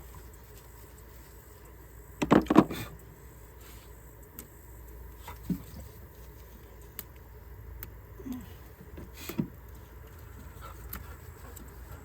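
Handling noises from work on an engine wiring harness: a short burst of rattling clicks about two seconds in, then a few lighter scattered clicks and taps over a faint steady hum.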